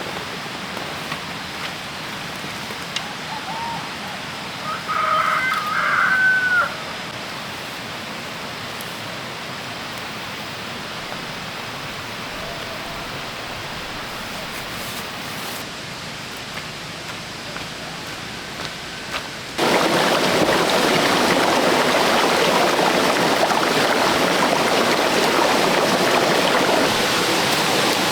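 A short crowing call like a rooster's about five seconds in, over a steady low hiss. About twenty seconds in, a louder, even rushing noise like running water cuts in suddenly and holds.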